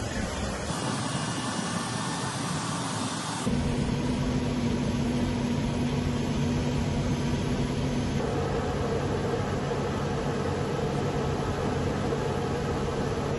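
Mi-26 heavy-lift helicopter's turbine engines and rotor running steadily, a continuous hum with a hiss over it. About three and a half seconds in the sound jumps louder with a strong low drone, and it shifts again about eight seconds in.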